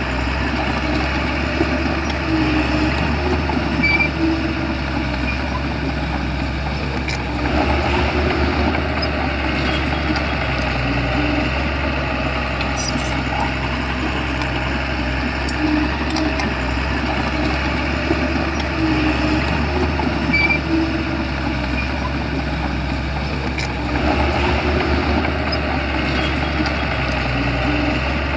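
Shantui crawler bulldozer's diesel engine running steadily with mechanical clatter, its note shifting briefly about a third of the way in and again near the end.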